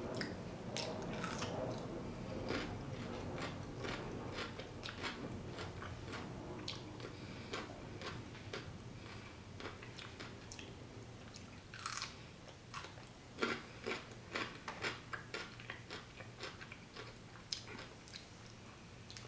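A person biting and chewing crunchy raw jicama fries, with many sharp, crisp crunches that are loudest in the middle stretch and fade near the end.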